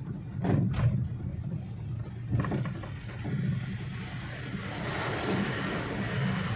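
Car running on the road, heard from inside the cabin: a steady low engine and tyre rumble, with a few short knocks in the first half and a rising hiss of road or wind noise near the end.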